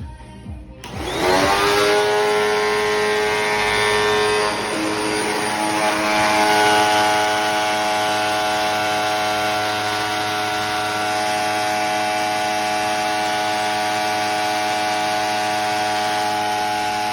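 Hoover WindTunnel upright vacuum cleaner switched on about a second in: its motor spins up with a rising whine, then runs steadily, the tone shifting slightly around four to five seconds in.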